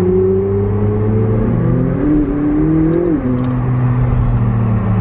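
McLaren 675LT's twin-turbo V8 heard from inside the cabin while driving. Its pitch rises for about a second and a half, then drops back suddenly a little after three seconds in.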